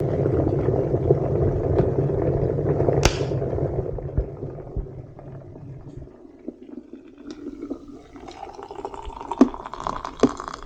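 Wind buffeting the microphone during a bicycle ride, heavy for the first few seconds and then easing, with scattered clicks and rattles near the end.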